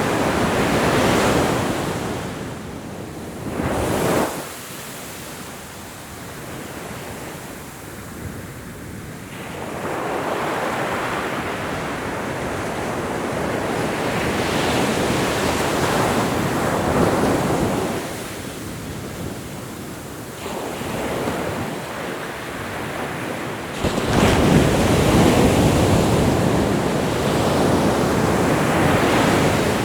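Ocean waves breaking and washing up the shore, the surf swelling and falling in long surges. There is a short sharp surge about four seconds in, and the loudest wave crashes about six seconds before the end.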